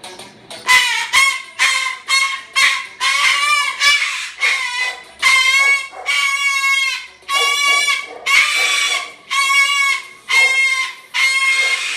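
Moluccan cockatoo calling loudly over and over, about one call a second. Some calls are harsh, rasping screeches and others are more pitched honking calls.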